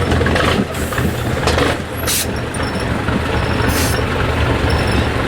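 IFA W50 off-road truck's diesel engine running steadily, with two short hisses of released air, about two seconds and about four seconds in.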